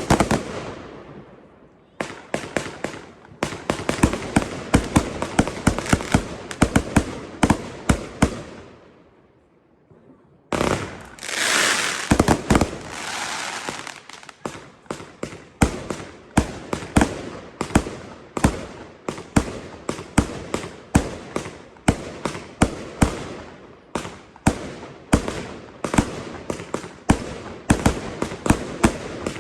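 Fireworks going off: a run of quick sharp bangs, several a second, dying away about a third of the way in. Then a sudden loud hissing burst, followed by another long run of rapid bangs.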